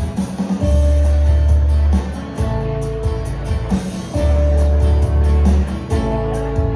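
Live band playing an instrumental passage: guitar over long, held bass notes, with drums keeping a steady beat on the cymbals.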